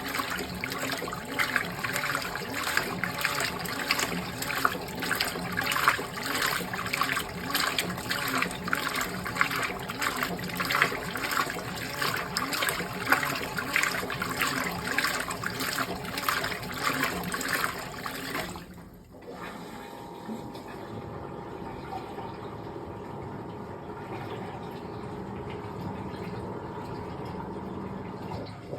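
Fisher & Paykel GW712 top-loading washing machine agitating a load, with water sloshing and splashing in a steady repeating rhythm. About two-thirds of the way through the agitation stops, leaving a quieter, steady machine hum.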